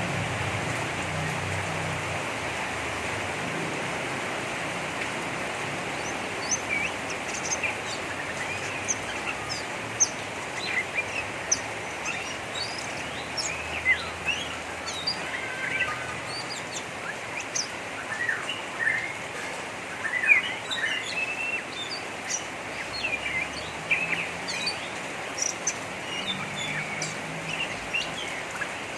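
Oriental magpie-robin (kacer) giving a rough, rapid chattering 'ngeriwik' of short chirps that begins about six seconds in, over a steady hiss.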